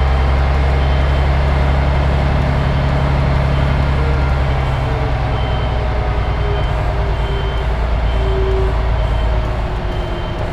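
HGV truck's diesel engine running steadily, heard from inside the cab as a loud low drone, with a short high beep repeating about every two-thirds of a second. The engine note eases off near the end.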